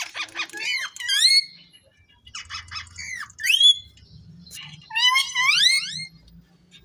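Ringneck parrot calling in three bouts, each a quick rasping chatter followed by sharp rising squawks.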